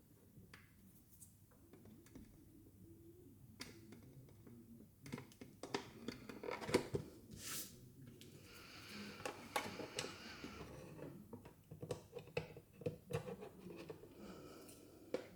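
Small plastic toy pieces being handled: light clicks and taps, with a stretch of crinkling plastic wrapping about two seconds long midway.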